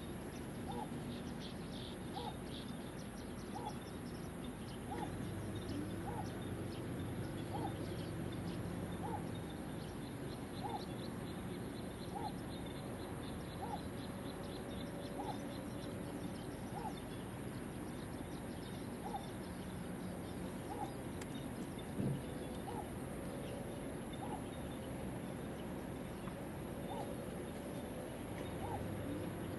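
A bird's short hooting note, repeated at an even pace of about one every second and a half, with faint high chirping at times. There is a single thump about two-thirds of the way through.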